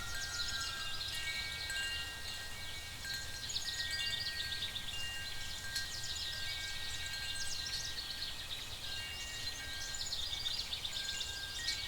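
Layered night-forest ambience: clusters of short, high chirps of nocturnal creatures over overlapping held chime-like tones, with a steady low rumble underneath.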